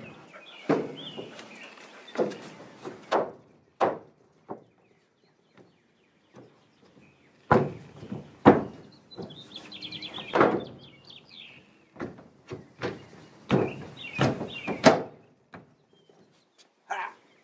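Pressure-treated 2x6 wooden boards being knocked and forced into place in a truck bed: a run of irregular thuds and knocks with gaps between them. Birds chirp in the background a second or so in and again near the middle.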